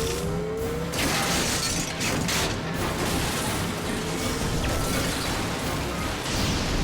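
Cartoon battle sound effects over action background music: a rising electronic zap near the start, then crashing and shattering impacts.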